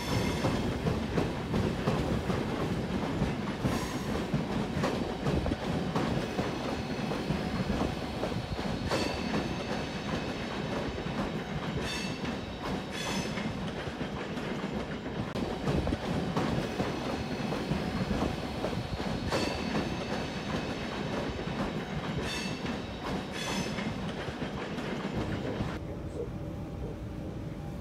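Lastochka (Siemens Desiro RUS) electric train running along the track, a steady rumble of wheels on rail with sharp clacks every few seconds. The sound thins out about two seconds before the end.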